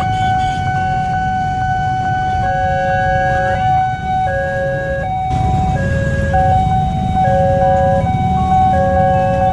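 Railway level-crossing warning alarm sounding a steady tone with a second pair of tones switching on and off about every 0.7 s, over a constant low rumble.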